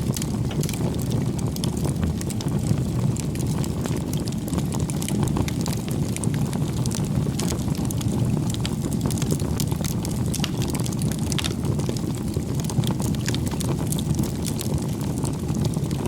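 Bonfire burning: a steady low rush of flames with many small sharp crackles and pops from the burning wood.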